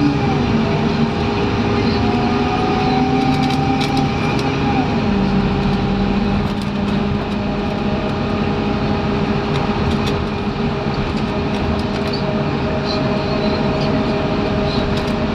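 Scania N230UD double-decker bus's five-cylinder diesel engine running under way; its pitch falls about five seconds in, then settles to a steady note, with light rattles over it.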